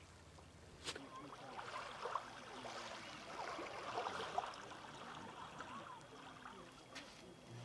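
Faint trickling and lapping of shallow seawater at the shore, with a soft tap about a second in and another near the end.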